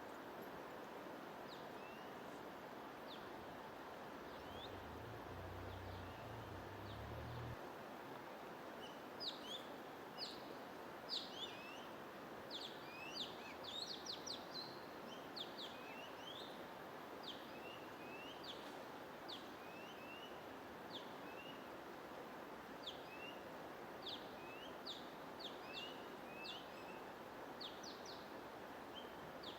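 Small birds chirping in short, quick sweeping notes, a few at first and then in rapid runs from about nine seconds in, over a steady hiss of white noise.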